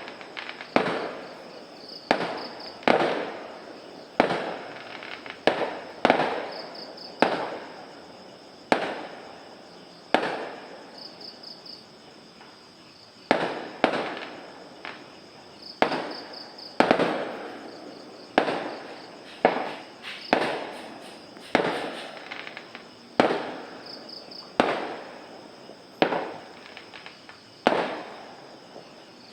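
Fireworks going off at night: a long irregular series of sharp bangs, about one every second or so, each dying away in an echoing tail. The bangs stop near the end.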